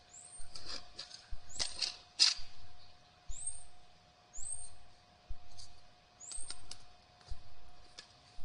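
A bird repeating a short, high, arching chirp about once a second. Several sharp scrapes and cracks of a hand tool digging into soil and roots come through it, the loudest about two seconds in.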